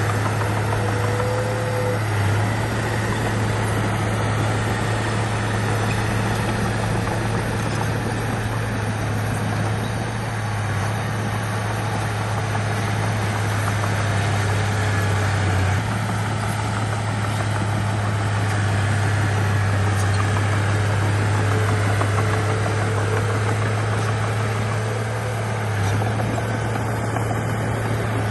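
Bulldozer's diesel engine running steadily under load, a constant low hum with a broad rumble over it.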